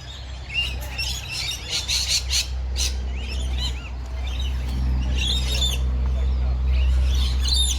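Many birds chirping and squawking in a dense, overlapping chorus, over a steady low rumble.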